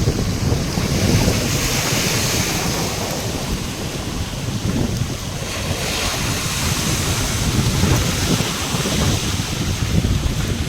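Heavy storm surf crashing and surging, with strong wind buffeting the microphone. It swells louder about two seconds in and again about six seconds in.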